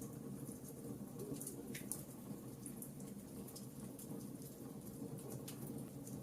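Wood fire of burning logs crackling: irregular small snaps and pops over a low, steady rumble of the flames.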